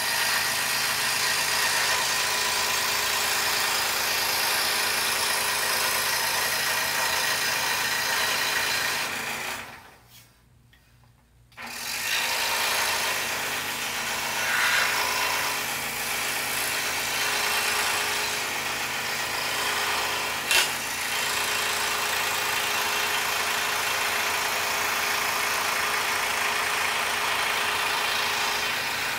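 Scroll saw running, its blade cutting through a poplar puzzle board with a steady mechanical buzz and hum. About a third of the way in it stops for roughly two seconds, then starts again; a single sharp click comes about two-thirds of the way through.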